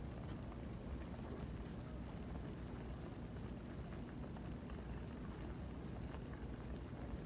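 Chicken adobo boiling in a covered pan: a steady bubbling hiss with many faint crackling pops.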